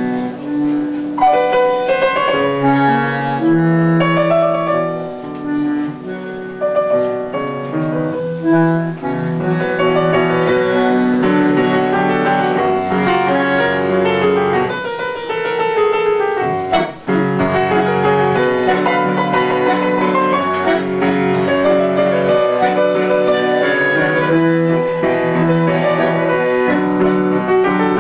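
Live tango played by a piano and bandoneon duo: piano chords and bass notes under the bandoneon's held reedy notes, with a brief break about two-thirds of the way in.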